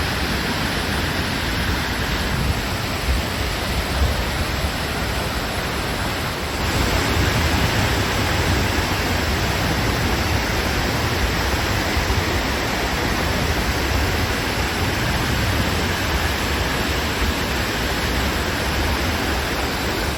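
Floodwater of a swollen creek rushing in a steady, dense wash of noise, getting louder about six and a half seconds in.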